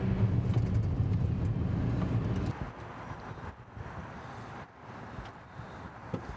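Car engine and road rumble heard from inside a moving car, a steady low drone that drops away about two and a half seconds in, leaving quieter background noise.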